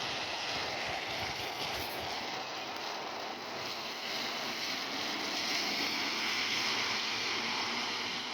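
Steady rain falling, an even hiss that swells slightly in the second half.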